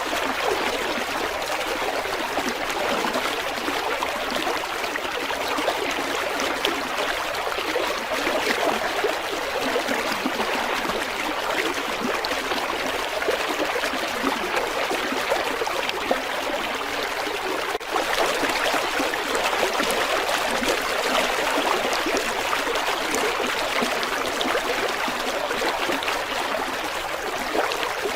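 River water flowing, a steady rush with little deep rumble, with a brief break about two-thirds of the way in.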